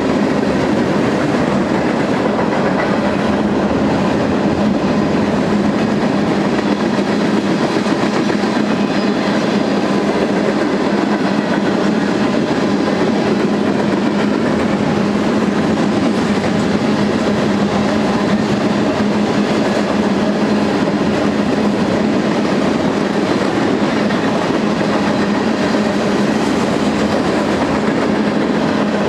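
A BNSF freight train's cars rolling past on the track, a loud, steady rush of wheel and rail noise with an even low hum underneath.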